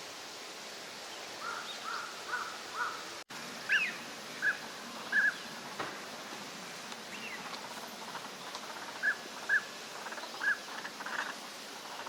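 Northern pintail drakes giving short whistled calls: a soft run of four, then louder single notes and loose pairs and triples, over a steady background hiss.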